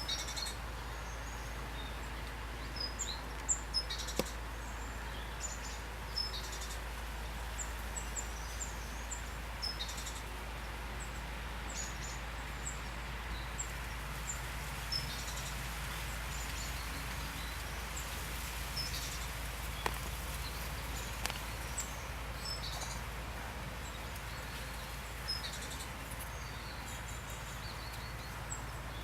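Steady hiss of pouring rain, with short high chirps from small birds calling on and off throughout. There are a few sharp ticks, at about four seconds in and again around twenty seconds.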